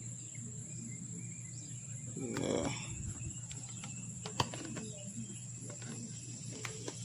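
Insects trilling steadily in a high, even tone over a low hum, with a brief murmur of a voice about two and a half seconds in and a sharp click a little past the middle.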